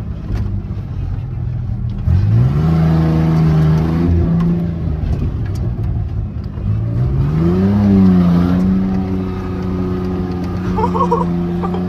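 Beater pickup truck's engine, with its exhaust partly removed and leaking, revving up under throttle twice and then holding steady, running rough with an unfixed misfire.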